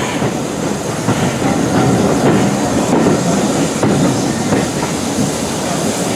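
A steam-hauled heritage train running along the line, the carriages rumbling steadily with a clickety-clack of wheels over the rail joints.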